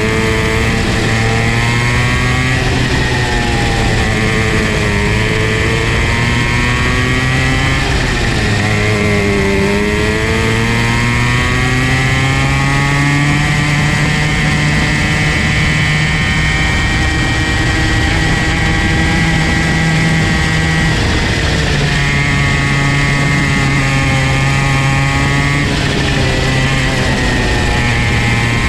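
Comer C50 50cc two-stroke go-kart engine running hard, its pitch climbing and then dipping sharply several times as the kart slows and pulls out again around the track.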